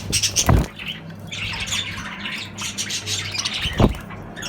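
A group of birds calling in many short, rapid notes, with two brief low thumps, one about half a second in and one near the end.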